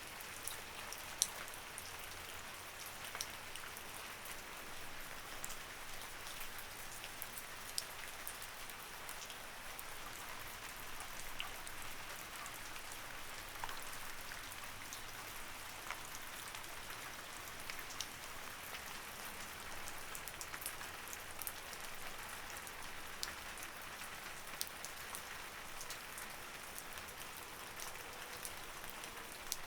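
Light rain falling steadily, a soft even hiss with many individual drops ticking on a surface at irregular moments.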